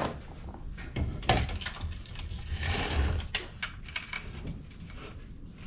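Irregular metallic clicks, knocks and a short scrape of tools and metal parts being handled.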